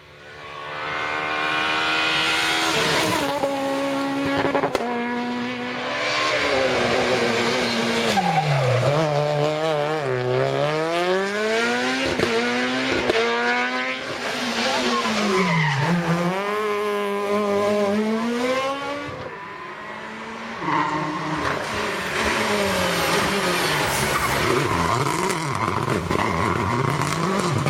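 Rally car engine at high revs, its pitch climbing through the gears and falling as it brakes and downshifts into corners about ten and sixteen seconds in, then rising again as it accelerates out. It goes quieter around twenty seconds in, and an engine note picks up again soon after.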